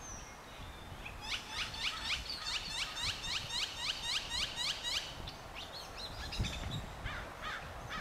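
A wild songbird calling a rapid, even run of downward-sweeping chirps, about four a second, for about four seconds, then a few scattered notes near the end, over a low rumble.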